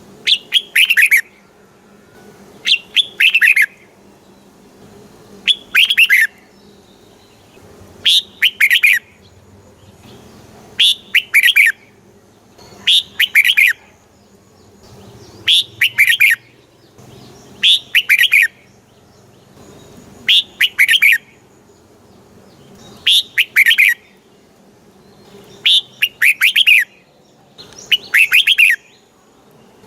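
Red-whiskered bulbul singing: short phrases of several quick falling whistled notes, repeated about every two to two and a half seconds.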